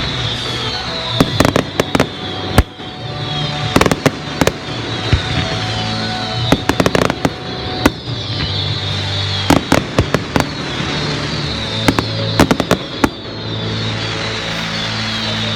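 Fireworks display: repeated sharp bangs and crackling bursts, with many short falling whistles, over music with sustained low notes.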